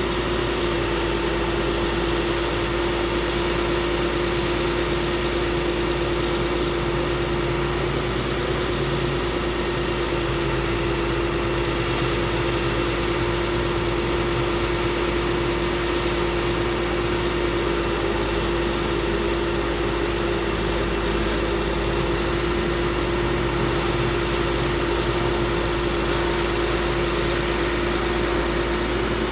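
Caterpillar C7 diesel engine of a Ford F750 bucket truck running steadily, with a constant whine over the engine noise.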